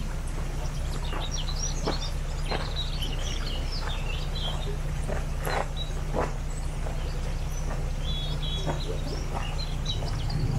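Birds chirping and calling repeatedly over the steady low hum of a narrowboat engine idling in a lock.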